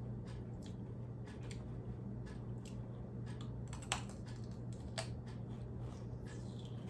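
Close-up chewing of raw celery dipped in ranch: irregular sharp crunching clicks, a few a second, over a steady low hum.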